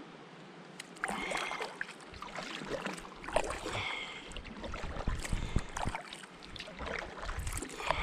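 Canoe paddle strokes in water: three splashing strokes a few seconds apart, the first about a second in.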